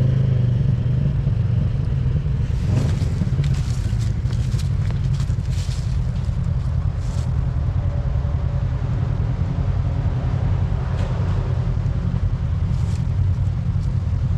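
Off-road vehicle engine running steadily under load while working through a bad spot on the trail, with scattered clicks and scrapes over it.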